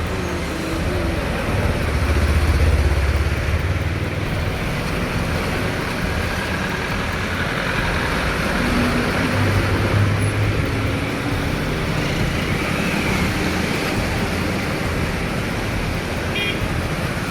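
Road traffic on a flooded highway: vehicle engines rumbling past over a steady rushing noise, the rumble swelling twice as vehicles go by.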